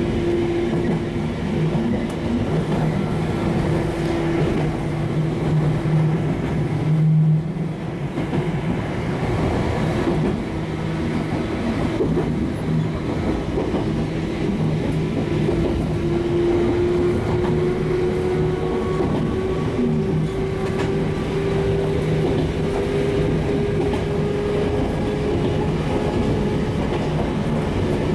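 Sangi Railway electric train running along the line, heard from inside the front of the car: steady rumble of wheels on the rails with a motor whine that rises slowly in pitch in the second half.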